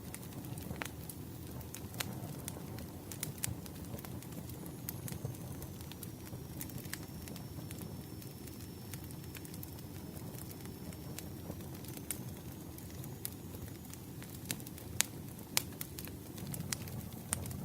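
Campfire burning, with a steady low rumble and frequent sharp crackles and pops from the wood. A faint thin high whistle is heard through the middle.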